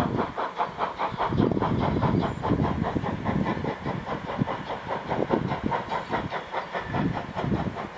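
Steam train moving along the track: a fast, even clatter from the wheels and running gear, with steam hissing and the low sound swelling and fading every second or two.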